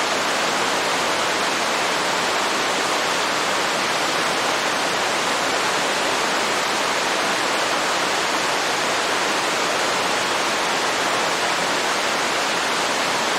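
Waterfall, water rushing in a steady, unbroken hiss.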